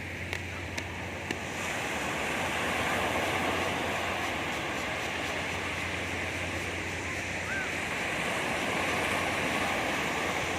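Sea waves washing onto a beach, a steady surf noise that swells about two seconds in and again later, with a few small clicks in the first second and a half.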